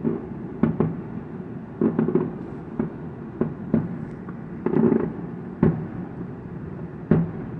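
Fireworks show: aerial shells bursting in an irregular series of sharp bangs, about eight of them, with a low rolling rumble carrying on between bursts.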